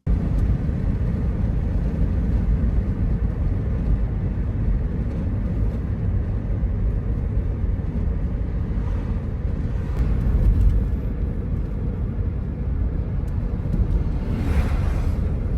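Steady low road rumble of a car being driven at speed, heard from inside the cabin, with a brief rushing swell near the end like a vehicle passing.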